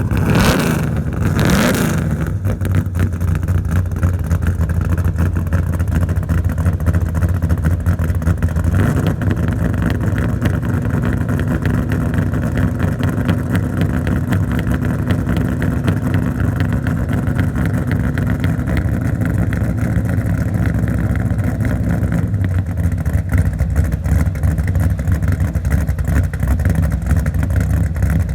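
A 572 cubic-inch big-block V8 blipped twice in quick succession, then idling steadily.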